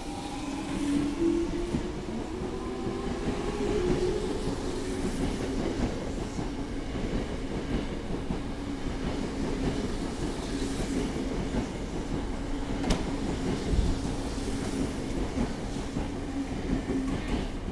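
Tokyo Metro 05 series subway train pulling out of the station. In the first few seconds its traction motors whine in several tones that rise in pitch as it accelerates; after that a steady motor hum sits over the rolling and clatter of the wheels on the rails, with a sharp click about 13 seconds in.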